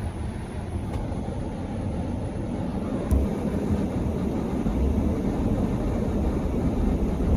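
Car driving through deep snow, heard from inside the cabin: a steady low rumble of engine and tyres, with a single click about three seconds in.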